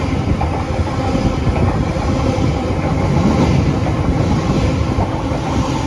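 Elizabeth Line class 345 electric multiple unit passing on the main line: a loud, steady rumble of wheels on rail.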